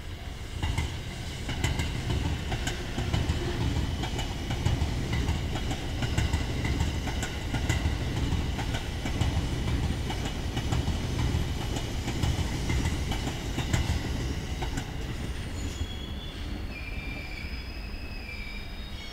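Electric passenger train passing close by: a steady low rumble of wheels on rail with repeated clacks as the wheels cross the rail joints, swelling about a second in and easing off in the last few seconds. Thin, high wheel squeal near the end.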